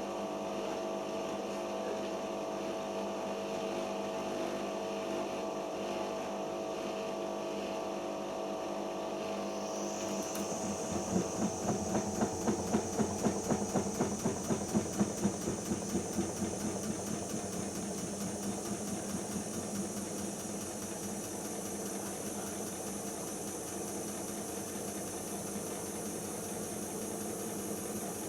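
Siemens iQ front-loading washing machine running through its final-spin stage with no spin selected: a steady mechanical hum. About ten seconds in, a high whine starts and a rhythmic pulsing of about two beats a second runs for several seconds before settling back to a steady run.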